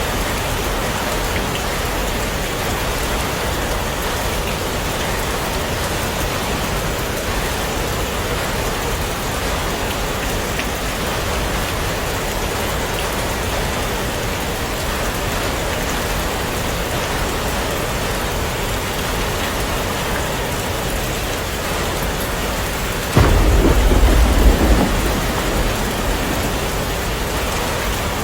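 Heavy rain falling steadily. Near the end a sudden thunderclap breaks in and rumbles for about two seconds before fading back under the rain.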